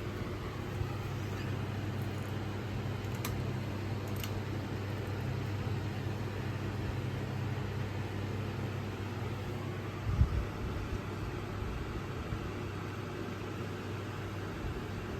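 Edison model 224527 ceiling fan running steadily: a constant motor hum under the whoosh of moving air. A couple of faint ticks come a few seconds in, and a single low thump about ten seconds in.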